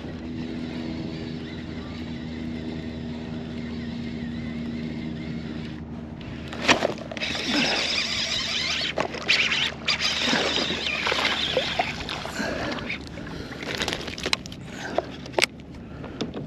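A steady boat motor hum with a low pitched whine for about six seconds. After that come irregular rushing noises and sharp knocks.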